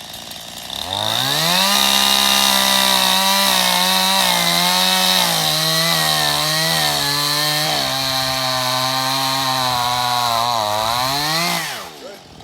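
Gas chainsaw throttled up about a second in and held at high revs while cutting into a small pine tree, its pitch sagging and wavering as the chain bites the wood. Near the end the throttle is released and the engine drops back quickly toward idle.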